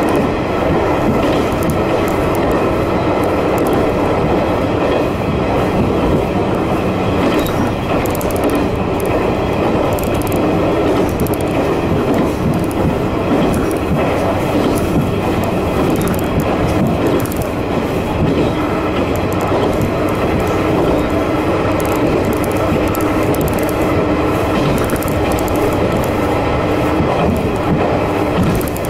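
Diesel railcar of the Kanto Railway Joso Line running steadily at speed, heard from inside the car: a continuous engine and wheel-on-rail rumble with a few steady tones and occasional light clicks from the track.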